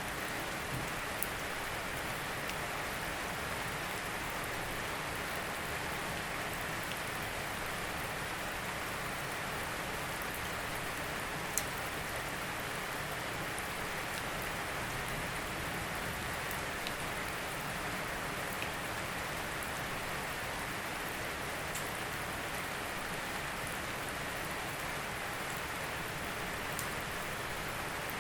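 Steady rain falling, an even hiss of many drops with a few sharper individual drop ticks here and there.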